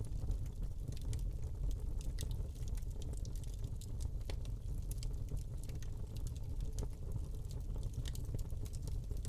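Wood fire burning in a fireplace: irregular small crackles and pops from the burning log over a low, steady rumble of the flames.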